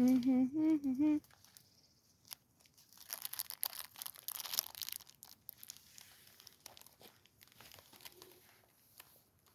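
Crinkling and rustling, densest about three to five seconds in, with scattered small clicks, after a brief pitched voice-like hum in the first second.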